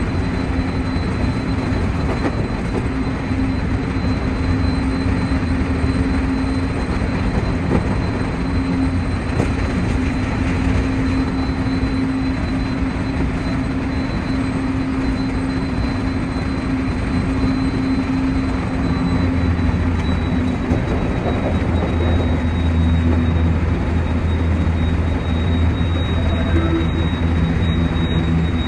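Running noise of a 223 series electric multiple unit heard inside the driver's cab: a steady rumble of wheels on rail with a low hum and a faint high tone. The rumble grows heavier in the last third.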